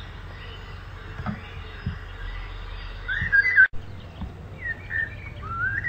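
Birds calling over a steady outdoor background hiss: a few short, bending chirps a little past halfway and again near the end, with a momentary break in the sound just after the middle.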